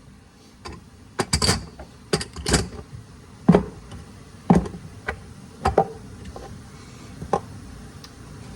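Kitchen utensils and cookware clattering: a run of about eight separate knocks and clinks at an uneven pace, thinning out toward the end.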